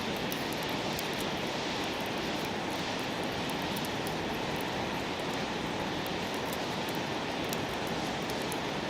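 Wood campfire burning: a steady hiss with many small, sharp crackles.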